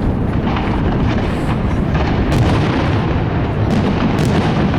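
Fireworks display going off in a dense barrage: many overlapping booms merge into a continuous rumble, with sharp bangs standing out every so often.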